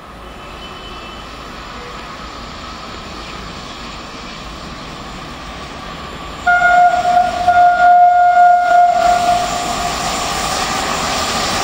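An Intercity train hauled by an electric locomotive approaching, its running noise growing steadily louder. About halfway through, the locomotive sounds its horn, a steady loud blast of about two and a half seconds.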